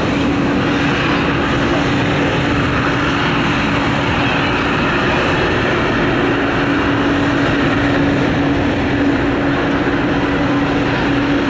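Swiss Bombardier CS100's Pratt & Whitney geared turbofan engines running steadily while the airliner taxis: a loud, even jet rush with a steady droning hum.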